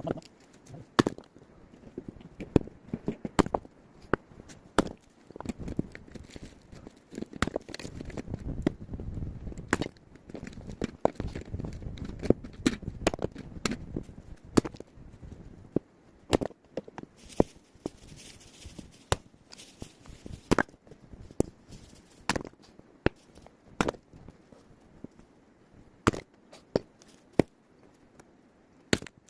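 Firewood being split by hand: repeated sharp chopping blows at irregular intervals, with a denser stretch of knocks and handling noise in the middle.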